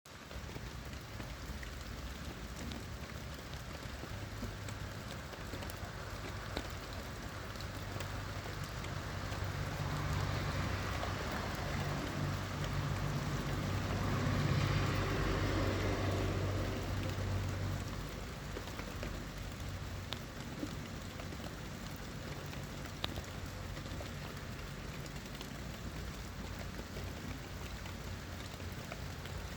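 Steady rain falling, with scattered drops ticking on surfaces. About a third of the way in, a vehicle passes on the wet road, growing louder to a peak about halfway through and then fading away.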